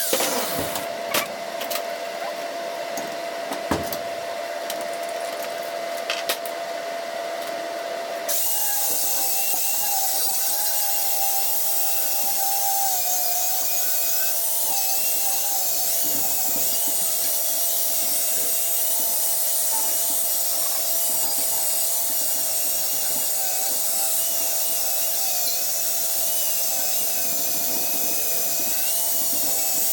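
A power tool working metal. For the first eight seconds there are scattered clicks over a faint steady tone. Then the tool starts suddenly and runs steadily, a loud hiss with a wavering high whine.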